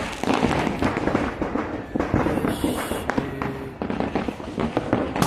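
Fireworks and firecrackers going off in a dense, rapid run of sharp cracks and pops, with a brief high hiss a little past the middle.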